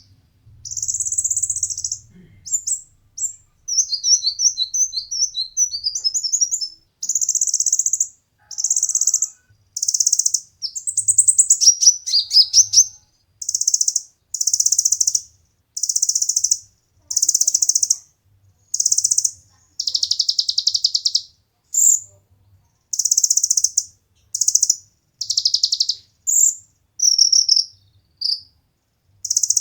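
Kolibri ninja sunbird singing: a long series of high-pitched, fast chirping and trilling phrases, each about a second long with short breaks between them, used as a song-tutoring recording for cage birds.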